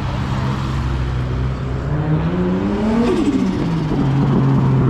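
A car engine running as it drives past, its note rising under acceleration to a peak about three seconds in, then dropping back.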